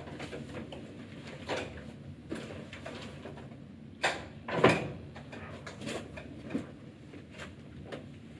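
Scattered knocks and clunks of things being handled and moved in a small room, over a low steady hum. The loudest are two close together about four and a half seconds in.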